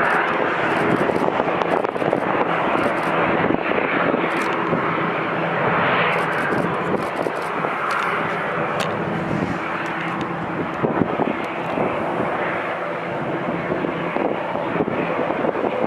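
Jet airliner's engines running at takeoff power: a steady, even rushing noise with faint steady engine tones underneath.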